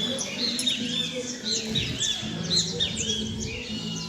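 Many small birds chirping and calling at once, a dense run of short, quick, overlapping tweets that never lets up.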